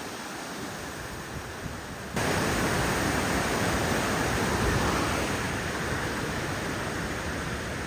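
Rushing water of river rapids, a steady roar that jumps suddenly louder about two seconds in and stays loud.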